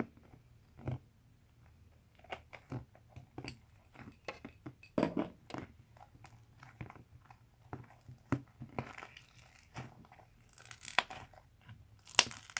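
Slime being squeezed and pressed by hand, giving irregular crunchy crackles and pops, with a few louder squelching bursts about five seconds in and near the end.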